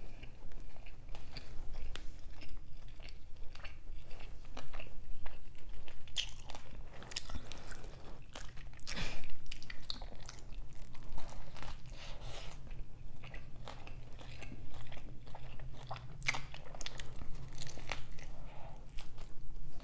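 Close-miked biting and chewing of a McDonald's Quarter Pounder with cheese, a string of irregular short crunches and mouth sounds.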